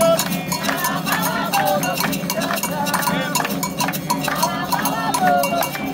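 Candomblé ritual music: hand drums and a bell in a fast, steady rhythm, with voices singing a wavering chant over them.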